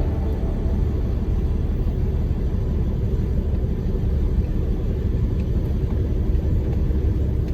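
Large truck driving: a steady low rumble of engine and road noise.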